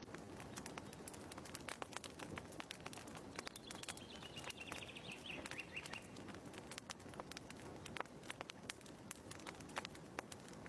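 Fireplace crackling: irregular sharp snaps and pops over a steady low hiss. About four seconds in, a short bird twitter falls in pitch over a couple of seconds.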